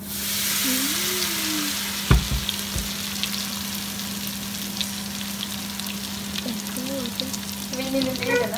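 Battered elderflower head dropped into hot oil in a wok. A loud sizzle starts at once and settles into steady frying, with many small crackles and pops. A single sharp knock comes about two seconds in.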